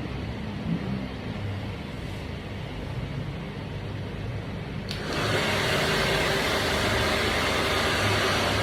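Hand-held hair dryer blowing a steady rush of air, with a low rumble at first; about five seconds in a click, and it runs much louder and hissier from then on, as when switched to a higher setting.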